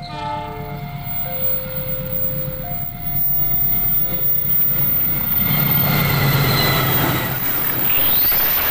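CC 206 diesel-electric locomotive hauling flat wagons, approaching and passing close by; its engine rumble and wheel noise build up and are loudest over the last few seconds. An alternating two-tone warning sounds over the first four seconds or so.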